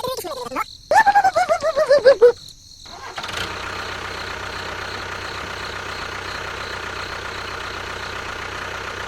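A rapid run of pulsing tones falling in pitch for about a second and a half, then an engine starts up and idles steadily, cutting off abruptly at the end.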